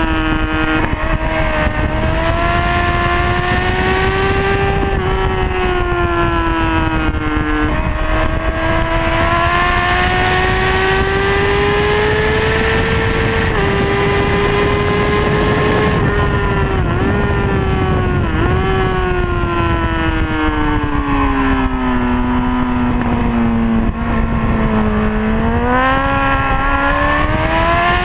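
Honda CBR600RR's inline-four engine at high revs, heard onboard over steady wind rush. The pitch climbs and drops with throttle and gear changes: a sharp drop about a quarter of the way in, two quick dips past the middle, then a long slow fall before it climbs again near the end.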